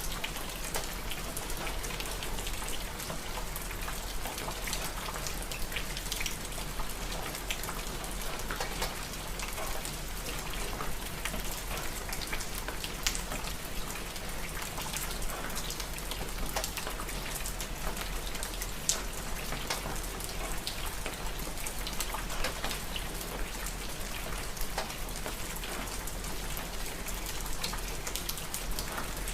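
Steady rain falling, an even hiss with many small sharp ticks of individual drops striking a surface.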